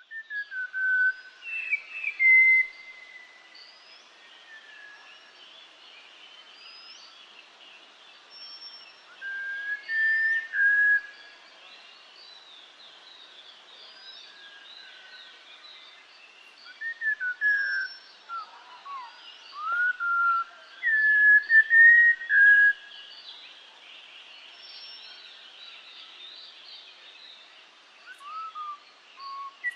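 Birds singing: clear whistled phrases that glide up and down come in short bursts every several seconds over a steady chorus of small high chirps.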